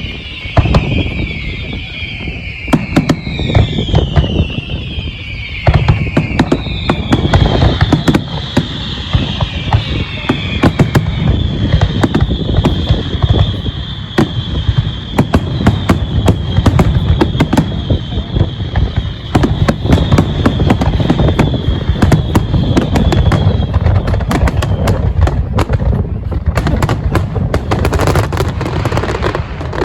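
Fireworks display: a dense run of rapid bangs and crackling reports, with high whistling in repeated falling sweeps through most of it.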